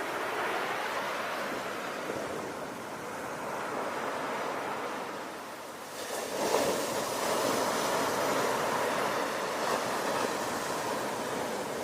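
Ocean waves washing on a shore, a steady rush of surf that eases off and then swells up again about six seconds in as a wave breaks.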